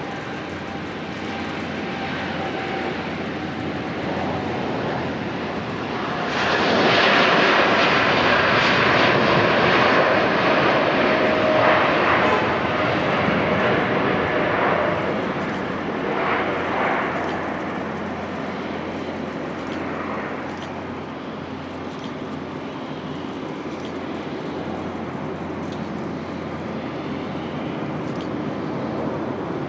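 Airliner engines running: the noise swells sharply about six seconds in, stays loud for several seconds as the aircraft passes, then slowly fades to a steady distant drone.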